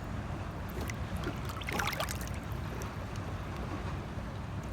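Water lapping and sloshing around a kayak, over a steady low rumble of wind on the microphone, with a few faint splashy ticks about two seconds in.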